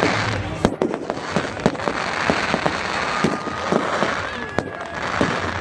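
Fireworks going off: many sharp, irregular bangs and crackles over a hiss. A thin, steady whistle comes in about three seconds in and jumps higher a second later.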